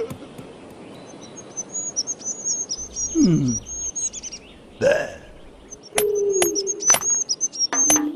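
Birds chirping and twittering in a high, warbling run, with a short low sound sliding down in pitch about three seconds in and a brief vocal burst near five seconds. A few sharp clicking taps come over the last two seconds, the loudest part.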